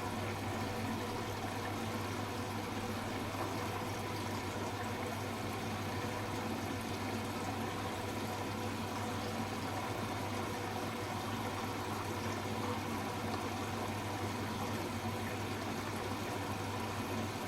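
Hoover H-Wash 300 Plus washing machine running steadily in its rinse programme: a constant sound of water moving, with an even hum underneath.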